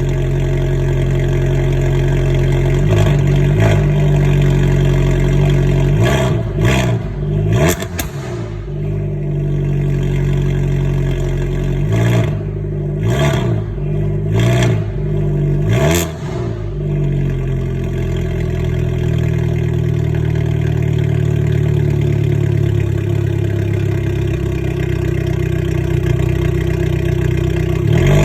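Abarth 595 Competizione's 1.4-litre turbocharged four-cylinder engine, through a cat-deleted Akrapovic exhaust, idling and given a series of short, sharp throttle blips, each rising and falling quickly, in the first sixteen seconds or so, then settling back to a steady idle.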